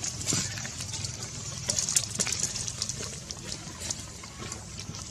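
Outdoor ambience: a steady hiss like running water, with many short clicks and rustles scattered through it.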